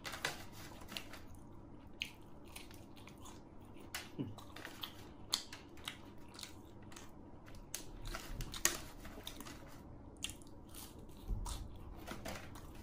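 Close-up chewing and biting of crispy fried mushrooms with cheese sauce, with irregular sharp crunches.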